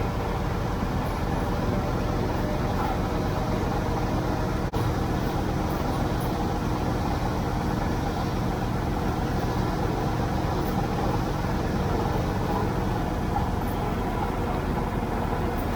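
Tractor engine running steadily under way, with a dense, fast low pulsing throughout; the sound drops out for an instant about five seconds in.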